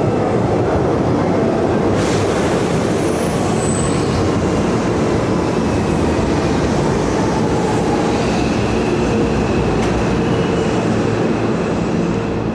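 Hanshin Railway electric train running through a station: a steady, loud rumble of wheels on rail, with a thin high whine coming in during the second half.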